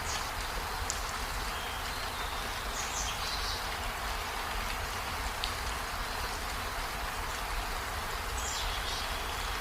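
Steady rainfall, an even hiss of drops, with a few faint short high chirps over it.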